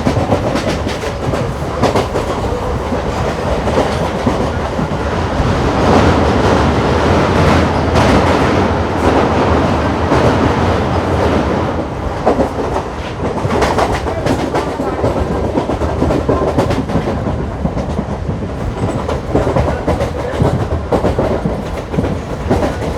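MEMU electric commuter train running along the track, its wheels clattering over rail joints in irregular clicks over a continuous rumble, heard from inside the coach.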